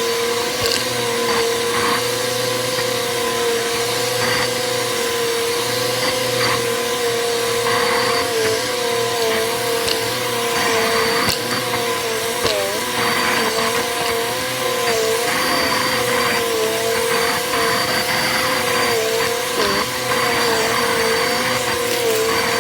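Bissell upright vacuum cleaner running with a steady motor whine that dips briefly in pitch now and then, as under changing load. Scattered crackles from debris being sucked up run through the later part.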